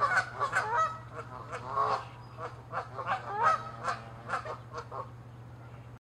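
Canada geese honking in a rapid, irregular series of short calls, several a second, which thin out near the end.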